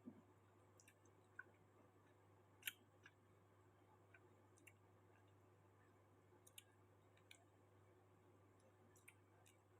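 Near silence over a steady low hum, broken by about a dozen faint, irregular clicks: the small mouth and chewing sounds of someone eating quietly.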